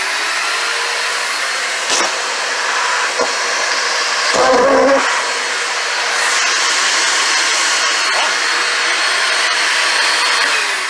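Hart 16-gallon, 6-peak-horsepower wet/dry shop vac running at full suction, a steady motor whine over rushing air, as it sucks up a small pile of trash. A few sharp clicks of debris and a louder surge about four and a half seconds in.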